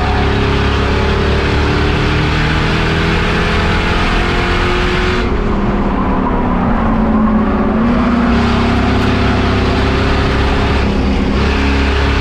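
Race car engine running hard at speed on an oval track. Its note shifts in pitch and softens in the treble about halfway through, then comes back up.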